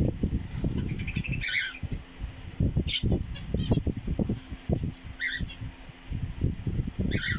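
Pet birds bathing: wings fluttering and splashing in water in quick, uneven bouts. Short, sharp squawking calls come about every couple of seconds.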